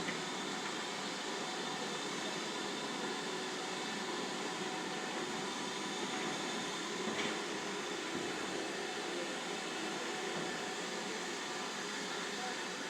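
Steady railway noise: an even hiss and rumble with no beat or chuff.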